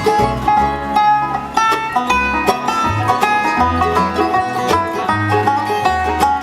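Bluegrass string band playing an instrumental break, a banjo picking quick runs of notes over deep bass notes.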